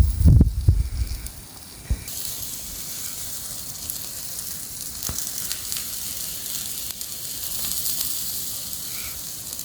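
Food sizzling over a campfire: a steady high hiss with scattered small pops that sets in about two seconds in, after a brief low rumble.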